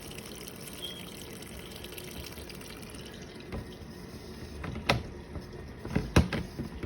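Small portable washing machine in its rinse cycle: water running into the tub from the faucet hose and sloshing steadily. A few sharp knocks come in the second half.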